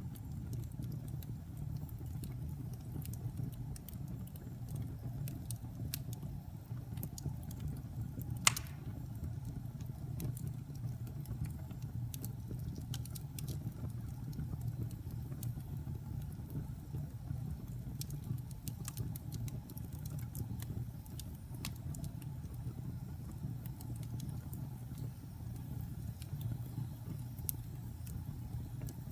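Fire burning in a fireplace: a steady low rumble of the flames with scattered crackles throughout, and one louder pop about eight seconds in.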